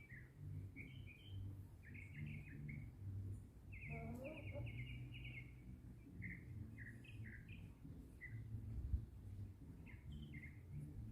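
Small birds chirping, with short, quick notes repeated throughout and a longer rapid trill about four seconds in, heard faintly over a low rumble.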